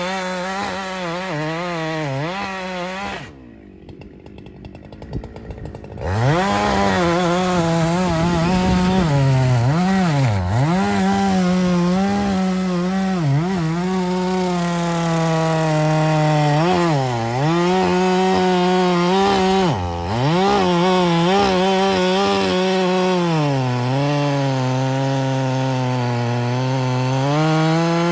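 Two-stroke chainsaw running at high revs while cutting wood. Its pitch sags briefly several times and for a longer spell near the end, as the chain loads in the cut. It drops away to a much quieter stretch about three seconds in, then revs back up about six seconds in.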